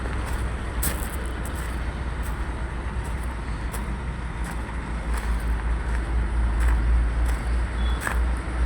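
Steady low rumble of a large diesel cargo truck's engine idling, with a few sharp clicks.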